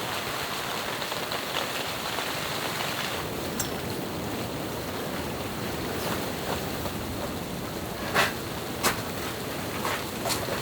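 Steady rushing noise of snowstorm wind and falling snow, with a few sharp taps in the last few seconds.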